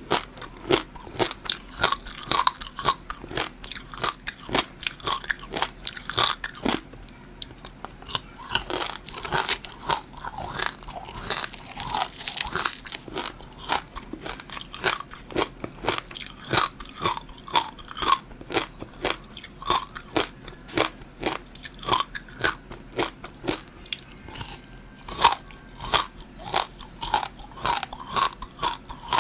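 A person biting and chewing food close to the microphone: a continuous run of short, sharp crunching clicks, several a second.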